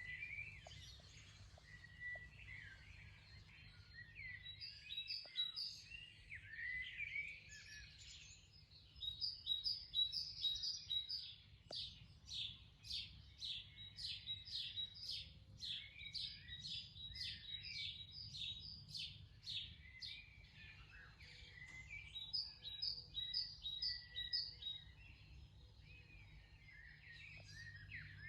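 Garden birdsong from several songbirds, Eurasian blackbirds among them: varied warbling phrases, with a long run of rapid repeated high notes from about nine to twenty seconds in, over a faint steady low hum.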